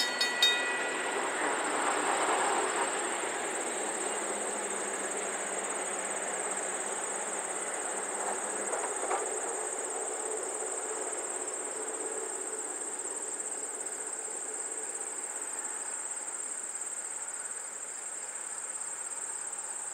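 A VIA Rail passenger train rumbling away into the distance, its sound dying out over the first several seconds. Under it and after it, insects keep up a steady high-pitched buzz.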